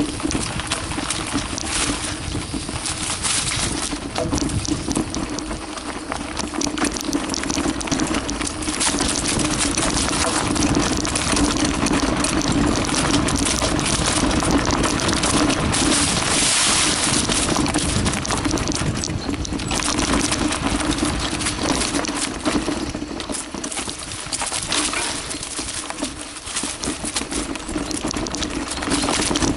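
Carraro Big 827 mountain bike rolling downhill on forest singletrack: tyres on dirt and stones, with the bike rattling over the bumps in many quick clicks and knocks. The noise stays steady and loud throughout.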